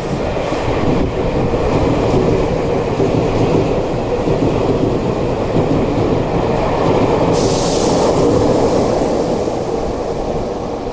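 Tobu 200 series limited express electric train passing through the station at speed without stopping: a loud, steady rumble of wheels on rail, with a high hiss coming in about seven seconds in.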